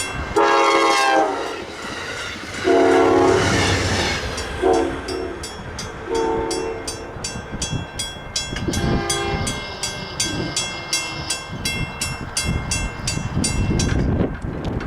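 A passenger train's air horn sounds the grade-crossing signal, long, long, short, long, as the train approaches. It then rumbles past close by, with an even rapid clicking all through.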